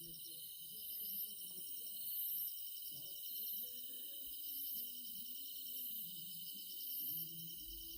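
Insects singing in an outdoor chorus: several steady high-pitched trills at different pitches overlap, the highest one pulsing about once every second and a half.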